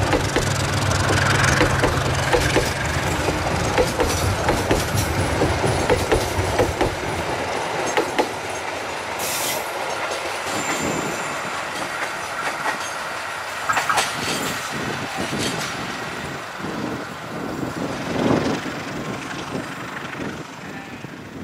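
A diesel-hauled passenger train passes and pulls away. The locomotive's engine hum fades out in the first several seconds. The clickety-clack of the passenger cars' wheels over the rail joints follows, with brief high wheel squeals on the curve near the middle, and it all grows fainter as the train recedes.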